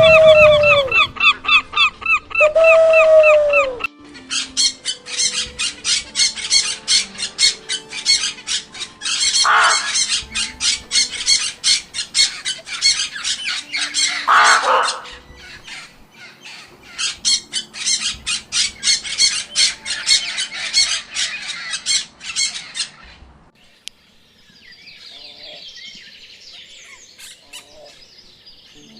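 Goose honking twice, then a long run of rapid, evenly repeated high bird chirps, several a second, with two louder falling squawks in the middle; the last few seconds hold only faint high chatter.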